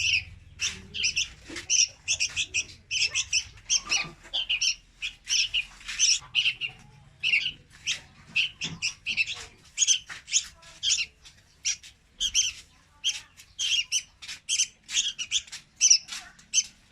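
Young red-whiskered bulbul calling: a rapid string of short, rasping chirps, about three a second, with brief pauses between runs.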